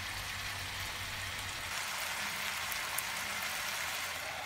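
Vegetables and paneer sizzling in a frying pan on a gas stove: a steady frying hiss.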